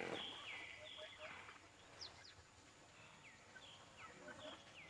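Faint wild bird calls: a run of short whistled notes, each dropping sharply in pitch, repeating about twice a second, with soft lower chirps between them.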